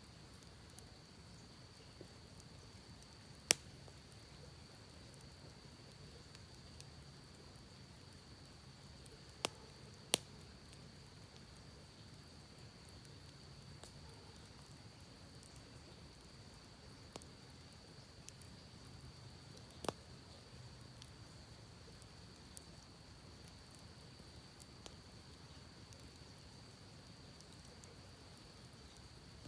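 Wood campfire crackling softly, with scattered small ticks and four sharp pops: one a few seconds in, two close together near the middle, one about two-thirds of the way through. A steady thin high tone runs underneath.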